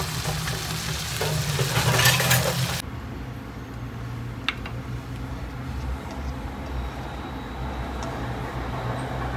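Chicken and shrimp in red curry paste sizzling in a wok while a spatula stirs it, cutting off suddenly about three seconds in. After that, a low steady hum with a single light click.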